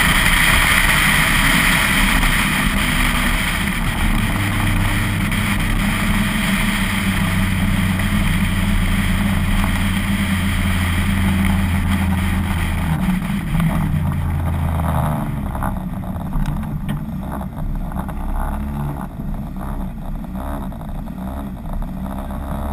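Citroën Saxo VTS 16V rally car's 1.6-litre four-cylinder engine heard on board: pulling hard at first, then holding steady revs from about four seconds in. Around thirteen to fifteen seconds in the revs drop away and it runs quieter as the car slows.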